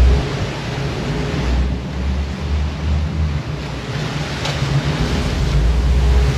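Pilot boat's engine running under gusts of wind buffeting the microphone, with rough sea washing against the hull.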